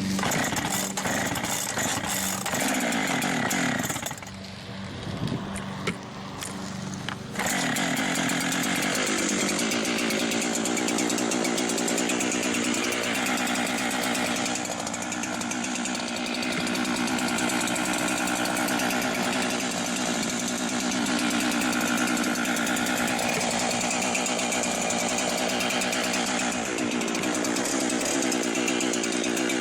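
Husqvarna 390XP two-stroke chainsaw running at high revs. It drops back and falters about four seconds in, then comes back up a few seconds later and stays at high revs with small shifts in pitch, as when cutting wood under load.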